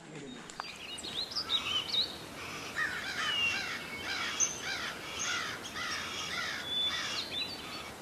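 Forest birds singing: a quick series of repeated rising-and-falling chirps, a few each second, with some thinner higher notes mixed in, starting about a second in.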